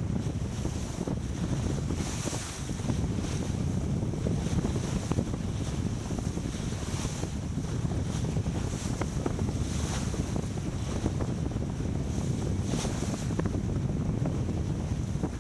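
Wind buffeting the microphone over water rushing past a racing sailboat's hull, with a surge of spray every few seconds.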